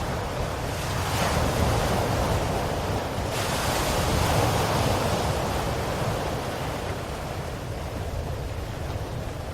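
Ocean waves breaking and washing on a shore, a steady rushing surf that swells twice and then eases off toward the end.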